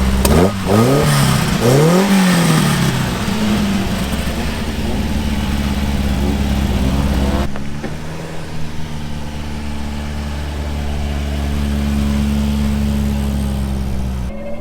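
Car engines idling, one revved in two quick blips about a second in that rise and fall back to idle. A deep engine drone cuts out about seven and a half seconds in, while another engine keeps idling.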